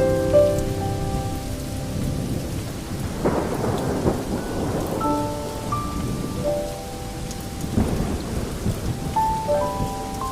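Steady rain with thunder rumbling twice, about three seconds in and again near eight seconds, under soft held music notes.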